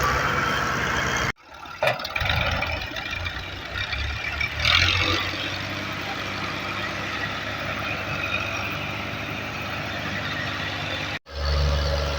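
Ghazi 65 hp tractor's diesel engine running while hauling a loaded trolley. The sound cuts out abruptly about a second in and again near the end, then resumes, with a brief louder surge in the middle.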